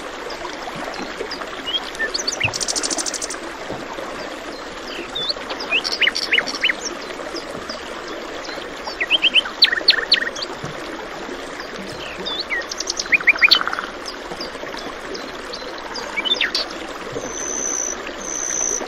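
Several songbirds chirping and trilling in short repeated calls over a steady rush of flowing water.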